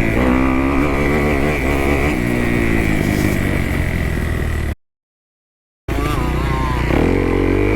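2018 Kawasaki KX250F's single-cylinder four-stroke engine revving up and down under a riding motocross rider, its pitch rising and falling with the throttle. The sound cuts out completely for about a second midway, then the engine picks up again.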